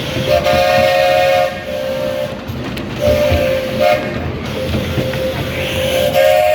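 Steam locomotive whistle sounding a chord of several notes in three blasts: a long one, a shorter one, then another long one starting near the end, over the rumble of the running train.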